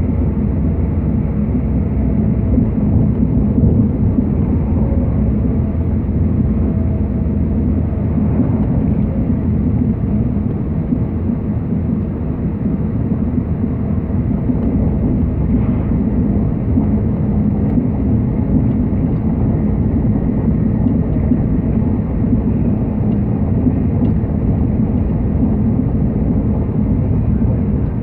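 Train running, heard from inside the carriage: a steady low rumble that holds level throughout.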